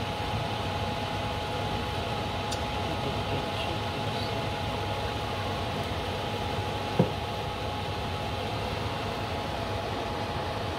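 Battered shrimp frying in a small saucepan of shallow oil that is not fully hot: a steady sizzle with a faint hum underneath. One short knock about two-thirds of the way in.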